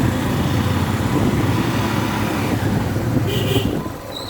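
Motorcycle engine running steadily, easing down near the end, with a brief high-pitched tone about three seconds in.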